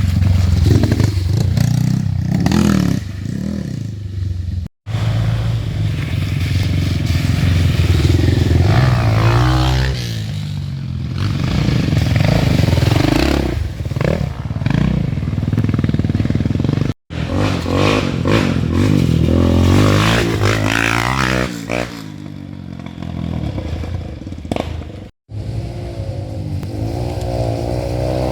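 Dirt bike engines revving, their pitch climbing and falling again and again, with clattering and scraping mixed in. The sound drops out abruptly three times.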